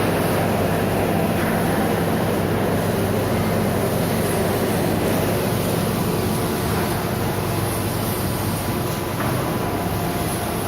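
Milling machine running steadily while cutting a propeller blade: a continuous mechanical noise with a low hum underneath.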